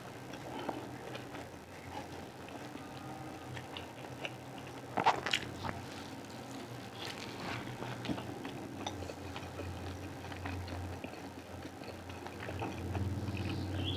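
Close-miked chewing and biting of food, with scattered small wet clicks and one louder click about five seconds in, over a low steady hum.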